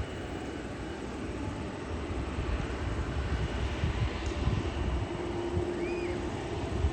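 Jet airliner passing close by, its engines making a steady rushing noise over a low rumble.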